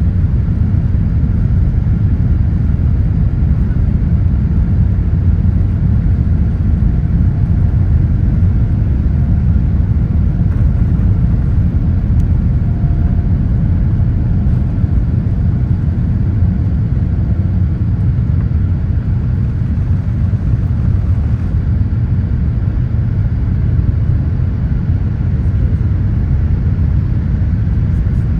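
Steady low rumble of airliner cabin noise aboard a Boeing 787-8, engine and airflow noise holding even throughout.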